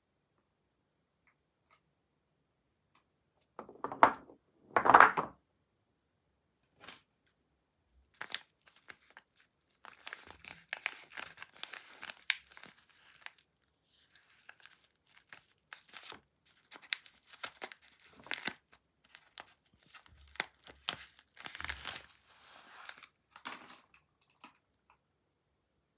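Soap packaging being torn open and unwrapped by hand: two loud rips about four and five seconds in, then a long run of scattered crinkling.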